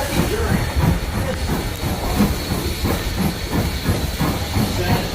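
Steam train: a steady hiss of steam over a low, rhythmic pulsing about three times a second.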